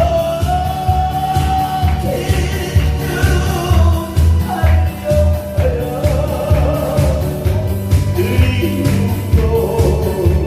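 A singer performing a song live over an amplified backing track, with long held sung notes above a steady, regular beat.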